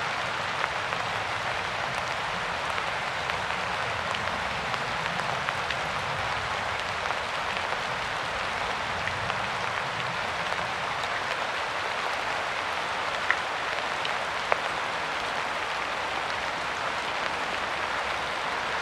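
Steady rain falling in an even hiss, with scattered single drops ticking and two sharper drop hits a little past the middle.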